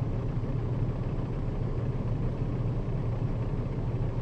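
Nissan Diesel KL-RA552RBN bus running, heard from inside the cabin: a steady low drone of diesel engine and road noise.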